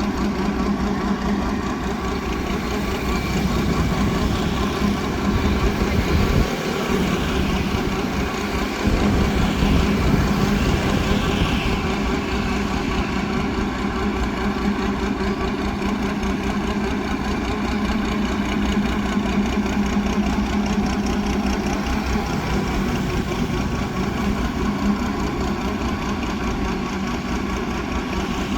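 Engine of a homemade mud suction boat running steadily, a constant droning hum that holds the same pitch throughout.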